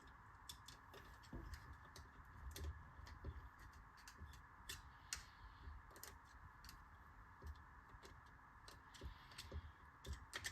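Faint, irregular small metallic clicks and taps of valve collets being fitted with a screwdriver into a compressed valve spring on a C20XE cylinder head, over a faint steady hum.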